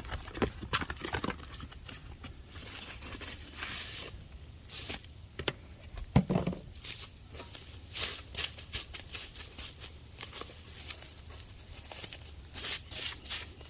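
Crinkling, tearing handling noises with scattered sharp clicks and knocks, and one louder thump about six seconds in.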